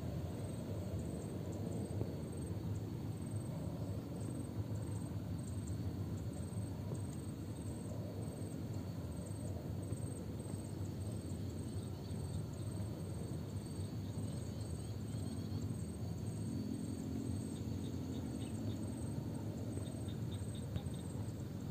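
Insects chirping, a faint high note pulsing evenly about twice a second, over a steady low rumble.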